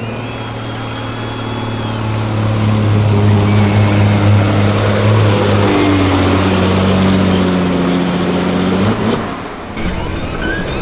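Peterbilt semi truck's diesel engine pulling hard under load against the pulling sled, with a high whistle that rises and falls over it. The engine note cuts off about nine seconds in, followed by a brief hiss of air brakes.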